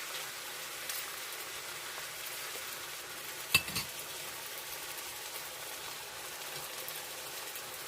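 Squash and pork stir-fry sizzling steadily in the pan, with one sharp clink about three and a half seconds in.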